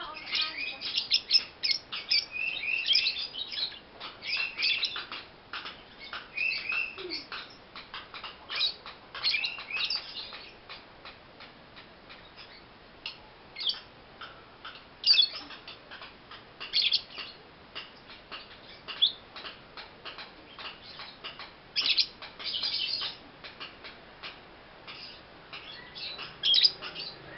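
Young lovebird chirping: quick, high-pitched chirps that come thick and fast for about the first ten seconds, then in scattered bursts.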